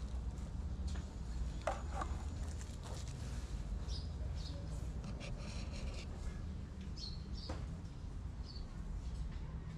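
Small birds chirping, short high calls scattered through the second half, over a steady low rumble.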